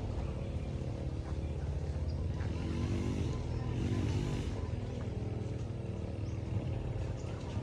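An engine running steadily with a fast low throb, its pitch shifting slightly a few seconds in.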